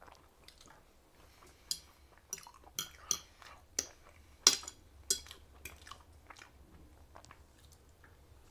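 A person chewing a mouthful of mashed potatoes and green peas, with wet mouth smacks and a run of short sharp clicks between about two and six seconds in, the loudest about halfway, picked up by a clip-on microphone on the chest.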